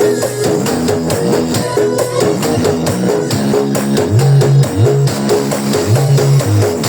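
Loud music with plucked guitar melody and a heavy bass line, played over a carnival sound system.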